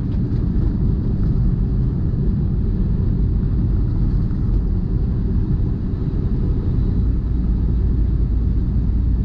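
Steady low rumble of a semi truck driving, engine and road noise heard inside the cab; the deepest drone grows stronger about seven seconds in.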